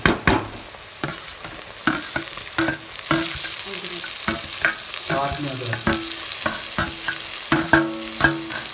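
Chopped tomatoes going into hot oil with fried onions in a pan and sizzling, while a steel utensil knocks and scrapes against the pan again and again.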